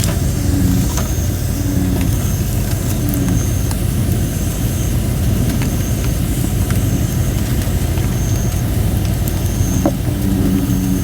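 Campfire of thin, not fully dried red robin (Photinia) wood: scattered crackles and short high whistling hisses as moisture steams out of the wood. A bullfrog gives short low repeated notes at the start and again near the end, over a steady low rumble.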